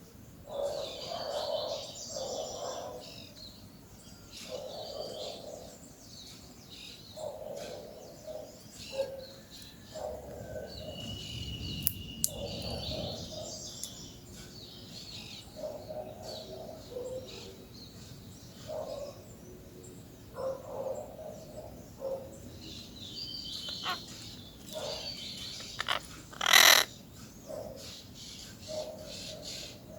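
Peach-fronted parakeets calling in short bursts on and off, with one much louder short sound near the end.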